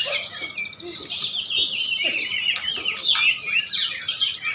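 Several caged songbirds singing at once, a dense run of rapid overlapping chirps and quick whistled sweeps.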